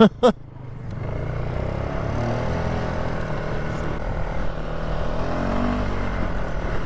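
Polaris ATV engine running steadily on a dirt trail, its pitch rising and falling gently with the throttle. Right at the start come two short, loud sounds with a falling pitch, a quarter of a second apart.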